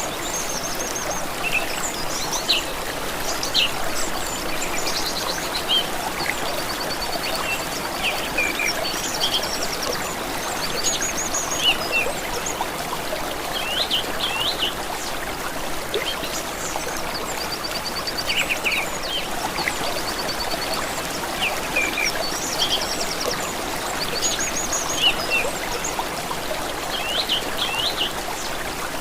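Steady running water of a stream or brook, with several songbirds calling and trilling over it throughout.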